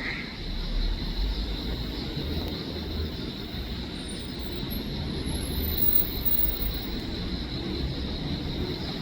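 Steady low rumble of distant traffic, with a continuous high-pitched hum over it.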